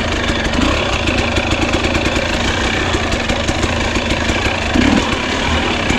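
Two-stroke enduro dirt bike engine running steadily at low revs.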